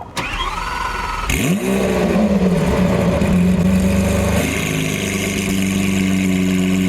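Lamborghini Aventador SV's V12 with a straight-piped, catless exhaust being started: the starter whines for about a second, then the engine catches with a sharp rev and settles into a steady, loud fast idle.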